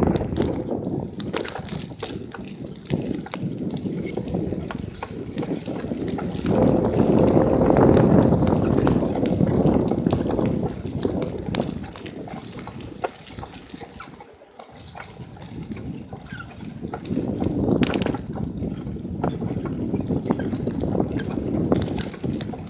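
Wind buffeting the microphone on a moving bicycle, swelling and fading, with many small clicks and rattles from the bike as it rolls.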